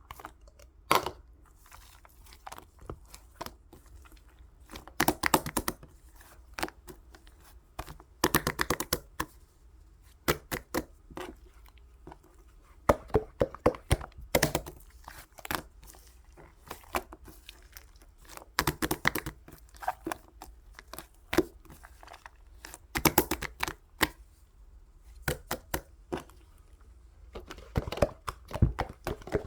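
Slime being squished, folded and pulled by hand, making clusters of sticky clicks and crackling pops every second or two.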